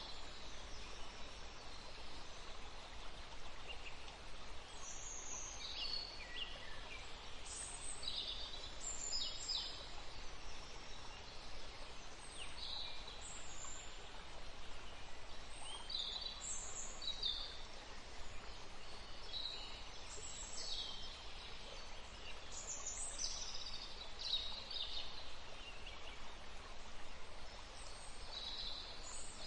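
Wild birds chirping in short, high calls, many sliding downward, coming every second or so over a steady low background hiss.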